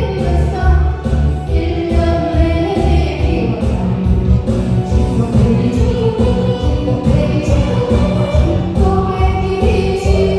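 A song sung over a full backing track with a strong steady beat and bass.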